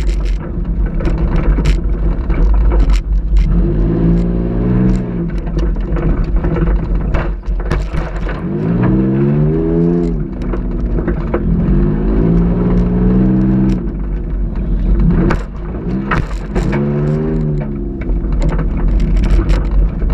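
Ford Taurus engine revving up and falling back four times under a heavy low rumble, with many sharp knocks and rattles from the car bouncing over a rough tough truck course.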